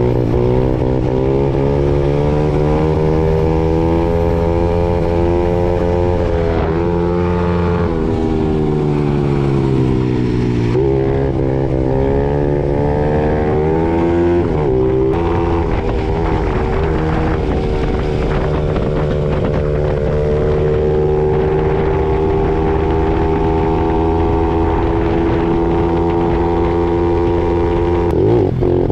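Honda CRF50 mini bike engine running under way. Its pitch drops and climbs again several times in the first half, then holds steady for the last ten seconds or so.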